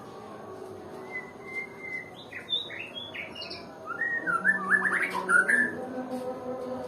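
White-rumped shama (murai batu) singing a short phrase. It opens with a held whistle, then a run of quick sliding notes, then a louder burst of rapid notes about four seconds in.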